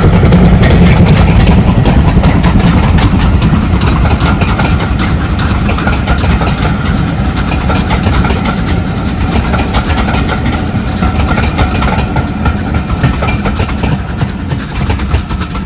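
A train running past with a loud, rapid clatter over a low rumble, fading gradually as it draws away.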